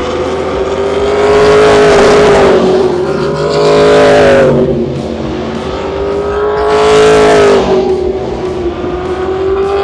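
Trans Am V8 race cars running at high revs on the track, swelling louder as they pass, about two, four and seven seconds in.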